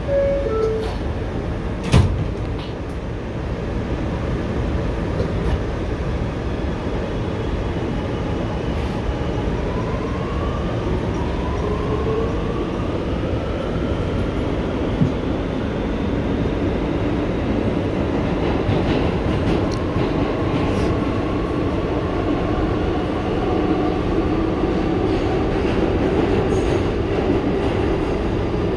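R211T subway car: a short two-note door chime and the doors shutting with a knock about two seconds in, then the train pulling out. Its traction motors whine upward in pitch, then settle under the steady rumble of wheels on the rails.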